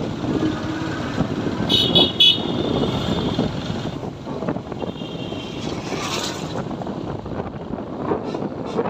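Motorcycle running along a road with engine and road noise, and a vehicle horn beeping three times in quick succession about two seconds in.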